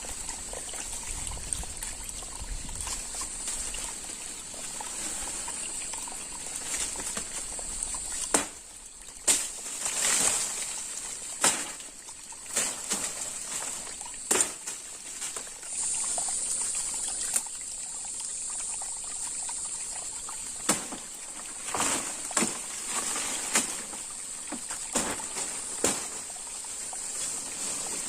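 Water pouring and trickling in short, repeated bursts over a steady high-pitched hum.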